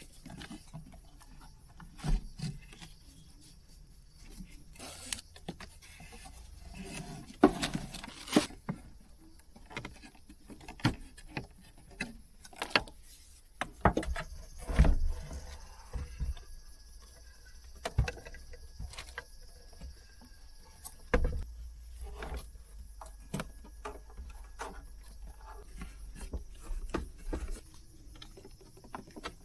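Irregular handling sounds: scattered clicks, knocks and a few heavier thumps of gear being moved and set up, with a faint low rumble underneath.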